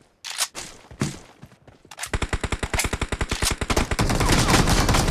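Video-game automatic rifle fire: a few separate clicks, then from about two seconds in a rapid, continuous burst of shots, about ten a second.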